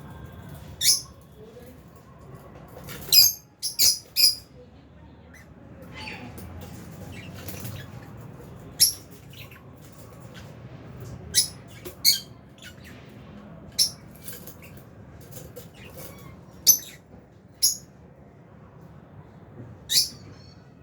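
Lovebirds giving short, sharp, shrill calls: about a dozen single chirps, some in quick runs of two or three, scattered over a quieter low background.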